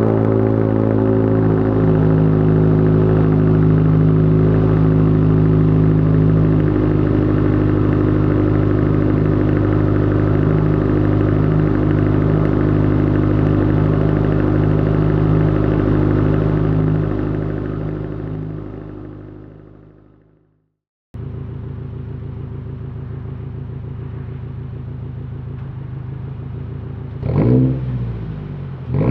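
2022 Subaru WRX's turbocharged 2.4-litre flat-four engine idling steadily through an ETS axle-back exhaust, fading out about two-thirds of the way through. After a cut it idles again, more muffled, with two short revs near the end.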